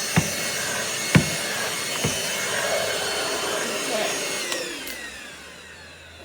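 Cordless stick vacuum (Roomie Tec SlimVac) running with a steady whine, with three sharp knocks in the first two seconds. About four seconds in it is switched off and the motor's whine falls in pitch as it spins down.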